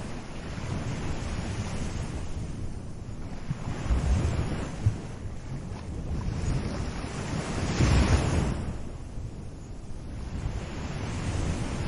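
Small sea waves breaking and washing up a beach, swelling and ebbing every few seconds, the biggest surge about two-thirds of the way through, with a low rumble of wind on the microphone underneath.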